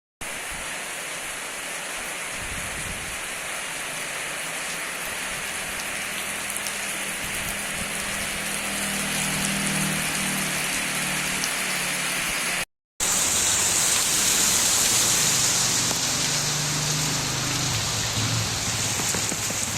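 Steady rain falling, an even hiss. The sound cuts out for a moment about 13 seconds in, then resumes slightly louder and hissier.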